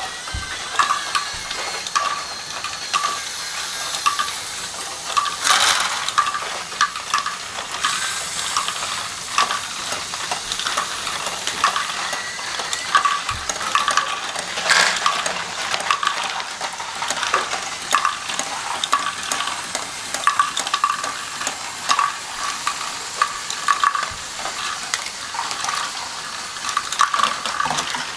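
Continual fine clicking, rattling and scraping of small hard objects, with short tone-like blips recurring every second or so and a couple of louder rushes of noise about five and fifteen seconds in.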